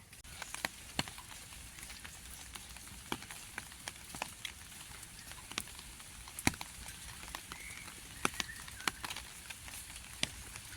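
Light rain: scattered drops ticking irregularly, about one or two a second, over a steady faint hiss.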